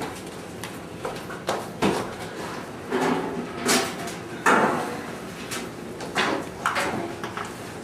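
Irregular knocks, bumps and rustling of people moving about and handling things in a small room, with door-like thuds.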